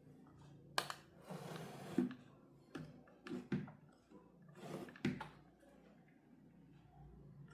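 A series of irregular knocks and taps, about seven in all, the sharpest about a second in, around two seconds in and about five seconds in.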